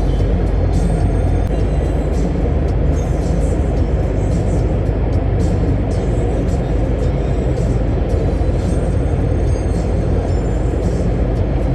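Scania truck on the move: a steady low engine drone with road noise, over background music.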